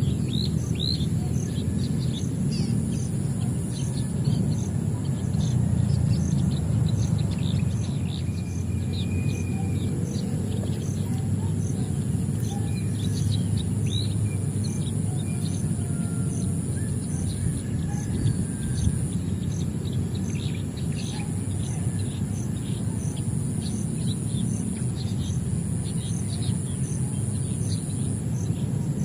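Small birds chirping, many short rapid calls throughout, over a steady high-pitched insect drone that pulses about one and a half times a second. A loud, steady low rumble underlies it all.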